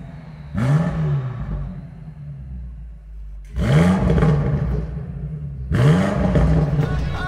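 Car engine revved three times in short blips, the pitch climbing and falling back each time, with the engine running lower between revs.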